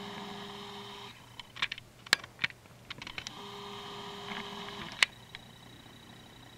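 Woodpecker pecking at tree bark: sharp, irregular taps, the loudest about two seconds and five seconds in. A steady whine sounds for about the first second and again in the middle.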